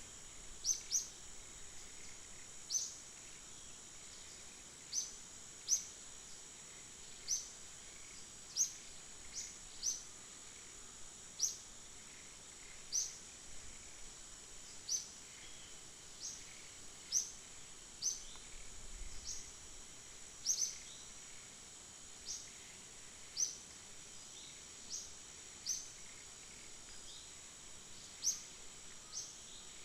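Outdoor natural ambience: a steady, thin, high insect drone, with short, sharp, high chirps repeating about once every second or so.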